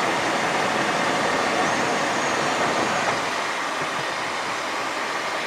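Cockpit noise of a Cessna Citation XLS business jet climbing just after takeoff: a steady rushing of its turbofan engines and airflow that eases slightly.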